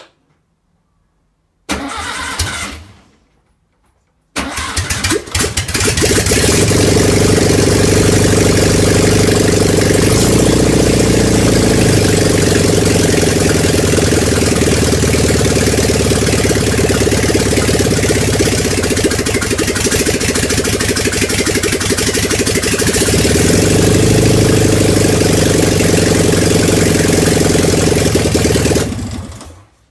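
Air-cooled Porsche 356 flat-four engine, running without a muffler, cranked and catching about four seconds in after a short first burst, then running loudly with two rises in revs before it is shut off near the end.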